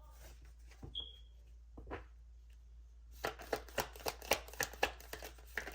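A deck of tarot cards being shuffled by hand: a couple of light taps, then from about three seconds in a quick run of card snaps, several a second, lasting about two and a half seconds.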